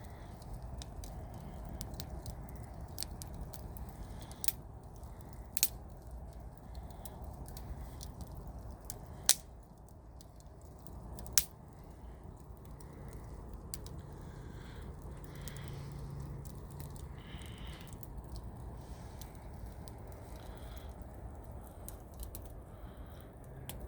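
Wood campfire crackling, with scattered sharp pops and snaps over a steady low background noise; the two loudest snaps come about nine and eleven seconds in.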